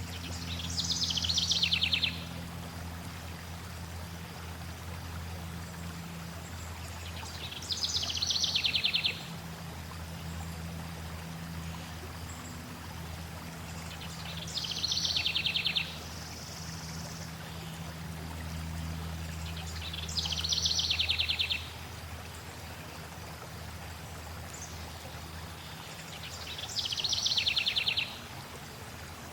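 A songbird repeating the same short, fast trilled phrase five times, about every six to seven seconds. Under it runs a steady flow of water with a low rumble.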